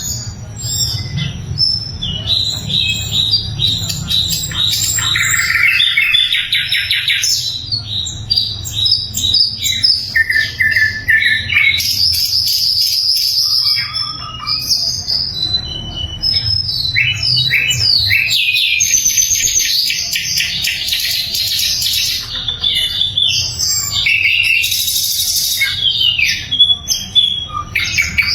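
Sikatan londo flycatcher singing loud and continuously: rapid, varied chirps and fast trilled phrases with only brief pauses, over a faint low hum.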